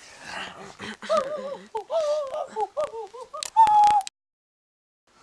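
A person making a silly warbling, hooting vocal noise whose pitch wobbles up and down, ending on a held note before cutting off suddenly about four seconds in.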